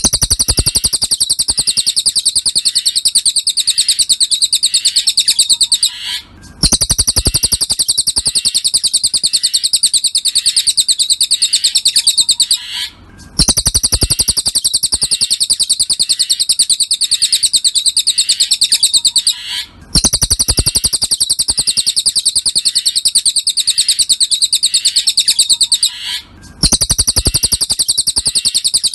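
Cililin bird song: a fast, even, high-pitched chirping trill in long runs of about six seconds, each broken by a brief pause, repeating at a steady interval.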